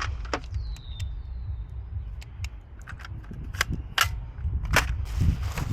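Sharp plastic clicks and clacks, about half a dozen at uneven intervals, as toy guns are picked up and handled. The strongest come in the second half.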